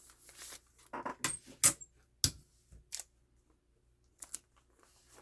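Paper rustling and a scatter of short, sharp clicks and taps from paper and small craft pieces being handled on a tabletop, the loudest a little under two seconds in.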